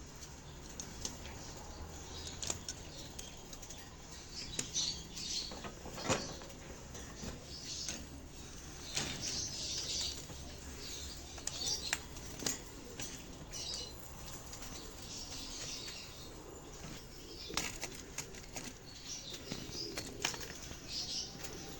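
Doves rustling and fluttering their wings in the nest: irregular short rustles with a few sharp clicks scattered throughout.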